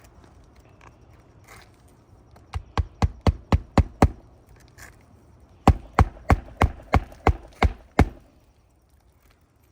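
Hammer driving roofing nails into asphalt shingles: two quick runs of seven or eight sharp strikes, about three a second, with a short pause between them.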